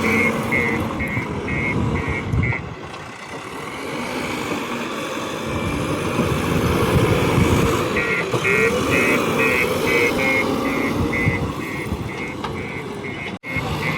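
Diesel engine of heavy farm machinery running, its pitch rising and falling, with a rapid electronic beeping of about two beeps a second during the first two and a half seconds and again from about eight seconds in.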